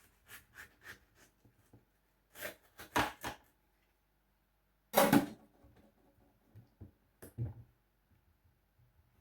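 A knife cutting through watermelon, with scrapes and knocks of the blade and fruit on a cutting board. It starts with light scrapes, then sharper knocks, and a loudest heavy knock about five seconds in.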